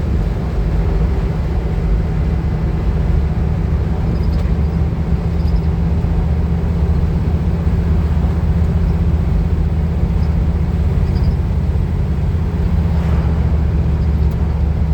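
Van driving along at a steady speed, heard from inside the cab: a loud, steady low drone of engine and road noise.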